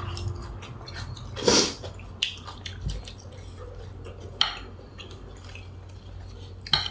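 Close-miked eating of nam tok grilled beef salad: wet chewing and mouth sounds with scattered sharp clicks of a utensil on a dish, over a low steady hum.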